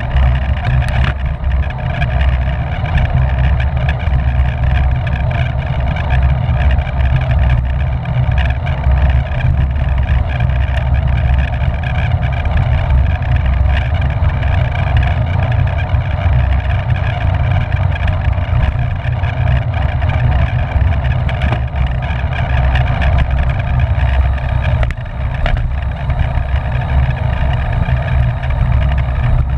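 Wind rushing over the microphone of a bicycle racer's camera at race speed: a loud, steady low rumble with a constant hum above it.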